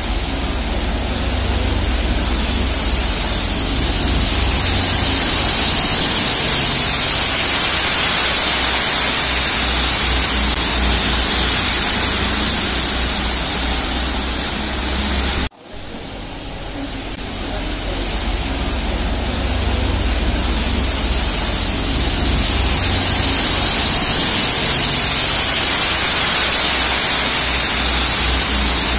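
Network Rail rail-head treatment train passing close by: a loud, steady hiss of its high-pressure water jets blasting leaf mulch off the rails, over the low rumble of the locomotive and wheels. It builds over the first few seconds, breaks off suddenly about halfway through and builds up again.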